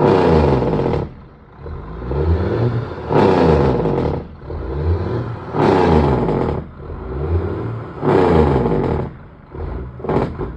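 American truck's diesel engine being revved hard while parked, about four times, the pitch climbing and falling back with each rev.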